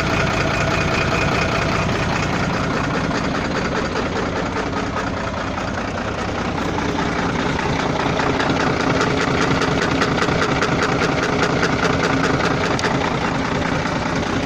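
Volvo FL6 truck's diesel engine running with a rapid, even ticking knock that is clearer over the second half. The owner cannot place the knock and calls it floating, coming and going.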